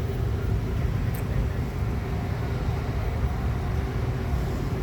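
A vehicle engine running steadily at idle: a low rumble with a faint constant hum above it.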